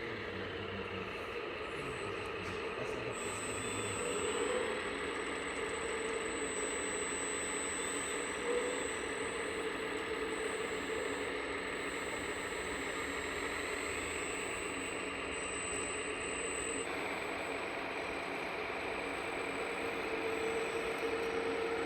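Radio-controlled scale model tractors and trucks running: a steady whine from the electric drive motors and gearboxes over an engine-like drone. The whine changes about two-thirds of the way in.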